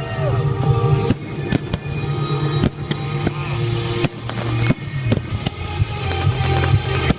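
Fireworks going off in a string of sharp, irregular bangs and crackles, over music with a steady bass line.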